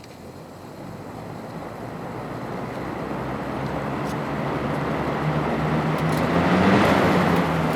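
Vintage Hunter 7-blade box fan running on low speed, its freshly oiled motor humming under a rushing of moving air. The airflow noise grows steadily louder and peaks near the end.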